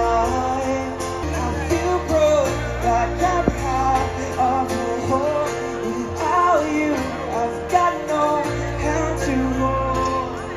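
Live pop-rock band music with a singing voice over held bass notes that change every second or two.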